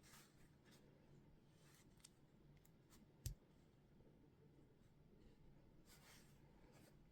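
Near silence with faint scattered clicks of small plastic Lego pieces being handled, and one sharp thump about three seconds in.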